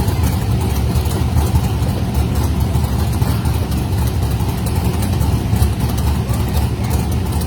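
Engine of a 1959 Chevrolet pickup truck running at a steady low pitch, holding an even speed.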